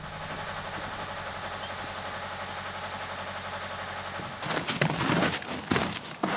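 A motor running steadily with a low hum, then from about four seconds in a run of loud, irregular sharp knocks and bangs.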